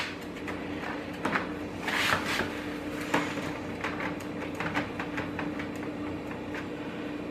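Plastic media tray being pushed down and seated inside a canister filter's plastic canister: irregular light clicks and scrapes of plastic on plastic, over a steady low hum.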